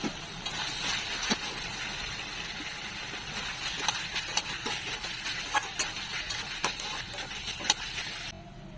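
Chicken curry sizzling in a hot pan: a steady hiss with scattered crackles and clicks, cutting off suddenly near the end.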